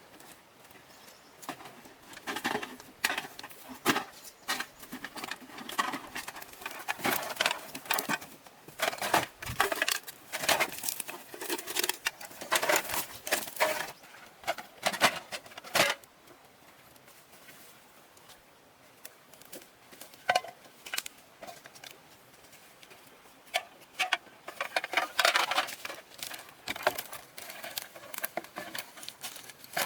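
Rapid, irregular clicks, taps and light knocks, like small hard objects being handled or worked with, in two busy stretches with a quieter lull in the middle.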